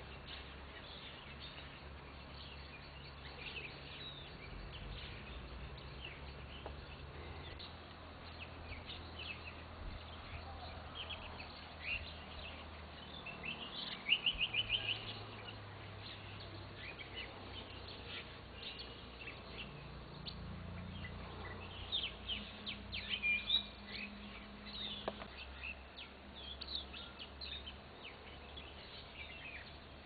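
Several small birds chirping and calling, with a rapid run of loud notes about fourteen seconds in and another burst of calls a little past the twenty-second mark, over a low hum.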